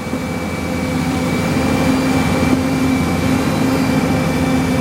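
Heavy machine engine running steadily, growing a little louder over the first two seconds, with a thin high whine over the drone.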